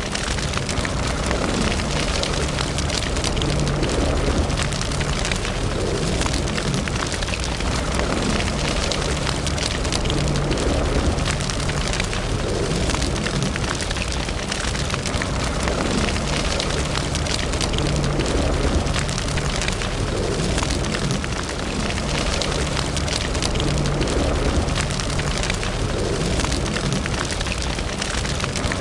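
Wood fire burning in a fireplace: a steady rush of flame with many small crackles and pops throughout, over a low rumble.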